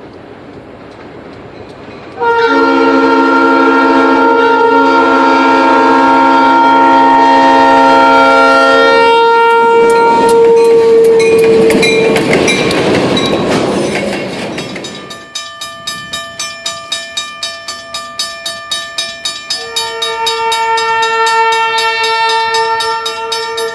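Freight train passing: the locomotive's air horn blows a long multi-note chord starting about two seconds in, with one note held on after the others stop, then a loud rush as the locomotive goes by. Wheels then clack over rail joints about two to three times a second, and the horn sounds again near the end.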